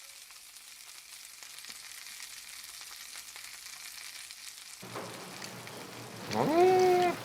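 Thick pork belly sizzling and crackling on a hot grill. Near the end a brief pitched sound rises and then holds, the loudest thing heard.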